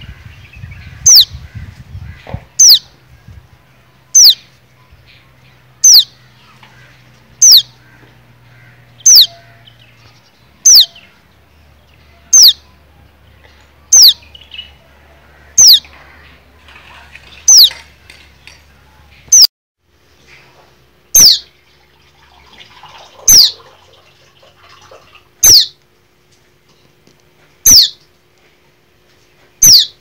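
A fledgling songbird repeatedly giving a loud, short chirp that sweeps downward in pitch. It calls about every one and a half seconds at first, then about every two seconds.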